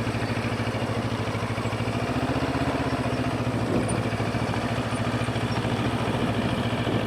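Benelli 702 motorcycle's parallel-twin engine running at a steady, unchanging speed, its firing pulses even.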